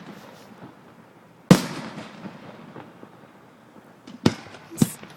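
Aerial firework shells bursting overhead: three sharp bangs, the loudest about a second and a half in, trailing off in a fading echo, then two more in quick succession near the end.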